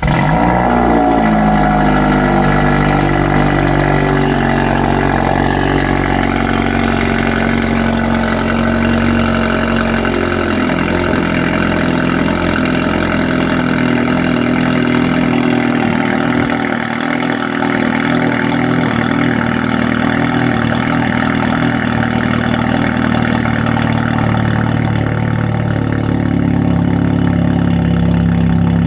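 2023 Hyundai Elantra N's turbocharged 2.0-litre four-cylinder catching on a cold start, breathing through a Borla ATAK cat-back exhaust and high-flow downpipe. It flares right at the start, its pitch easing down over the first few seconds, then settles into a loud, steady cold-start idle.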